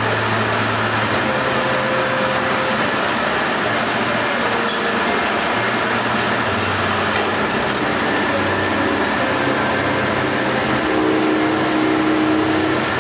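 Manual lathe running continuously as it turns the welded bearing seat of a hydraulic pump: a low drone under a dense hiss.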